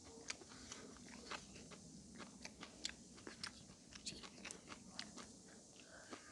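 Faint chewing and biting: irregular soft crunches and mouth clicks as someone eats grilled pork, a few clicks a second.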